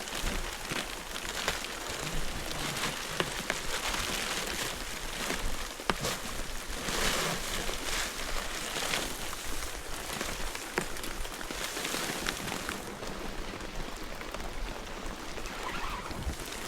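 Steady rain falling, a dense hiss scattered with many small drop ticks, a little heavier about seven to nine seconds in.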